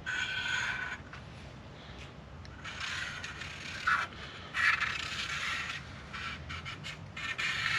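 Several separate scraping strokes, each about a second long, from working on a piece of sheet steel, with a low hum underneath.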